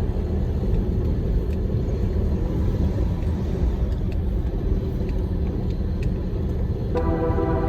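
Large truck driving: a steady low rumble of engine and road noise. Music comes back in near the end.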